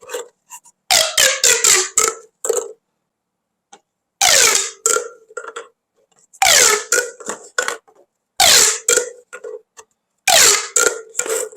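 Plastic pop tubes being stretched and compressed in five short bursts, each a ribbed, zipping sound with tones that slide downward in pitch.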